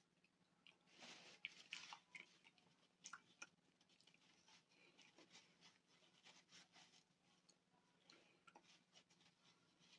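Quiet close-up eating sounds: chewing a mouthful of stuffed bell pepper and mashed potatoes, with small wet mouth clicks and a metal fork scraping a plate now and then. A faint steady hum runs underneath.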